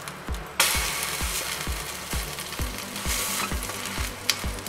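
Egg-soaked bread frying in butter on a hot flat tawa: the sizzle breaks out suddenly about half a second in as the slice is flipped onto its unbrowned side, and holds steady while it is pressed with a steel spatula, with a sharp click near the end. Background music with a steady low beat runs underneath.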